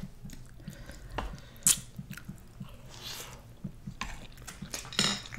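Close-miked chewing and wet mouth sounds of people eating curry and rice, with scattered small clicks and one sharper click about a second and a half in.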